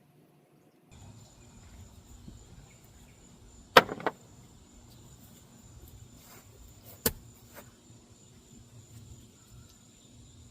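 Outdoor garden ambience with a steady, thin, high insect drone. A sharp double knock comes about four seconds in and a single sharp knock about seven seconds in.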